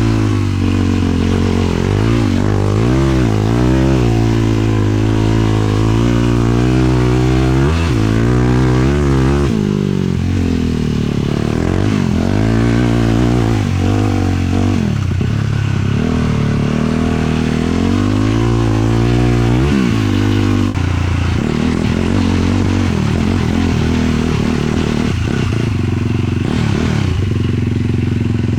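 Sport quad's 450 cc single-cylinder four-stroke engine running under way, its revs rising and falling again and again, then settling to a steadier note about two-thirds of the way through.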